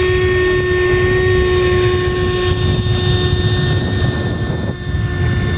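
Electric motor and propeller of a radio-controlled model airplane whining at a steady high pitch at high throttle, over a low rushing noise.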